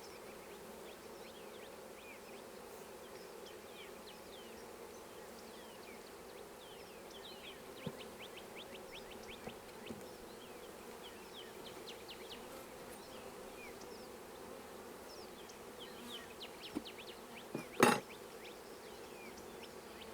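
Honey bees buzzing steadily around an open hive, with individual bees flying close past in quick pitch sweeps. A few light knocks, and one sharp loud knock near the end, like a hive frame or tool.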